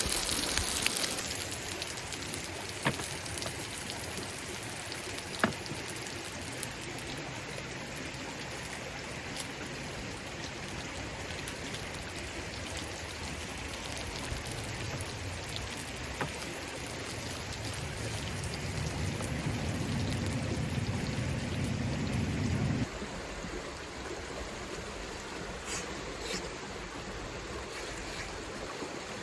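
Steady rushing-water noise with a few faint scattered ticks. A low rumble builds from about fourteen seconds in and cuts off suddenly some nine seconds later.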